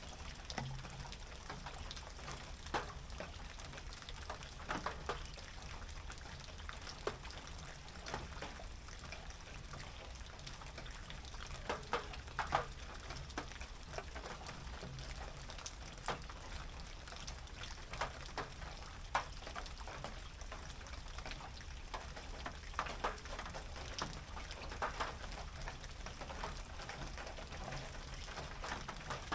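Rain on a tin roof: a steady patter, with louder single drops striking the metal irregularly, about one every second or two, over a low steady rumble.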